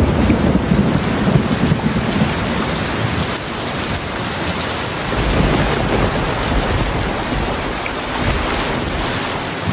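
Heavy rain falling steadily, with low rumbling thunder that swells near the start and again about five seconds in.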